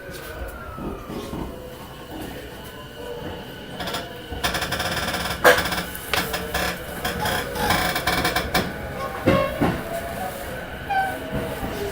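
Interior sound of a JR East E233-1000 series electric train as it sets off from a station. The running noise grows much louder about four and a half seconds in, with knocks and rattles as it gets under way.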